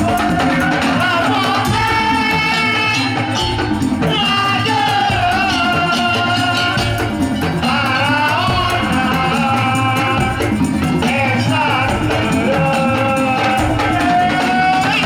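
Madurese daul (tong-tong) music played live: a long-held, gently bending melody line over drums and rattling, jingling percussion.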